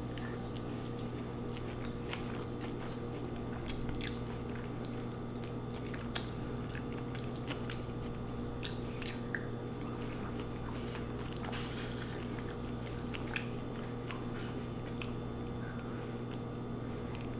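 Close-up chewing and biting of crunchy chicken, with irregular sharp crunches and crackles over a steady low hum.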